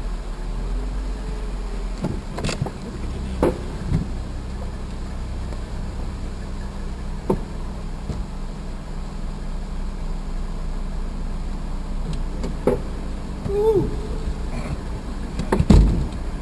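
Car engine idling steadily, with a few knocks and clicks scattered through it and the loudest thump near the end.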